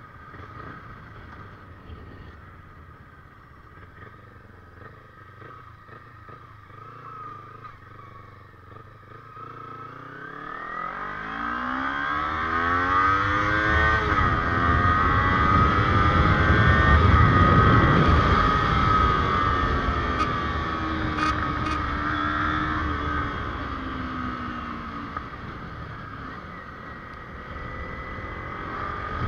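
Kawasaki Ninja 250R parallel-twin engine accelerating. It is fairly quiet at first; about a third of the way in its pitch climbs and it grows loud, peaking about halfway, then eases off and drops in pitch toward the end.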